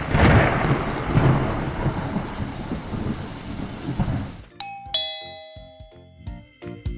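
A loud rumbling rush of noise that fades away over about four seconds, followed by a descending two-note chime that rings on.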